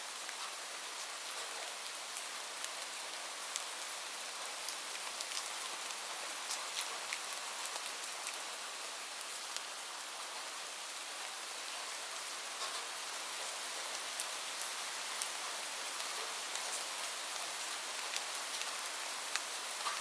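Steady rain falling, a constant hiss with many small drops ticking sharply on a surface.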